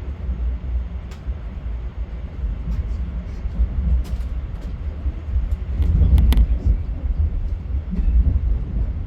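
Train running by with a steady low rumble, louder about six seconds in, where a cluster of sharp high clicks is heard.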